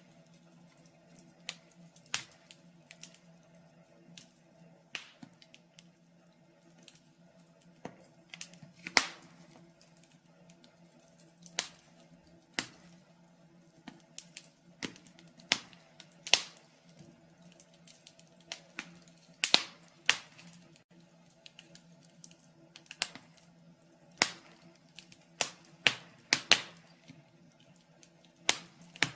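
Wood fire in a fireplace crackling, with irregular sharp pops and snaps, some much louder than others.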